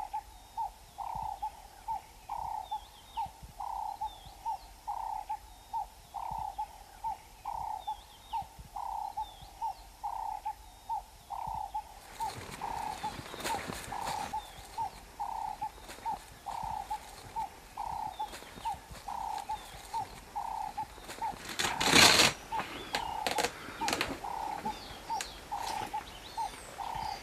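A bird repeats one short, low hooting note over and over, about one and a half times a second, with faint higher chirps from other birds behind it. From about halfway a rustling noise joins in, with one loud burst of it late on.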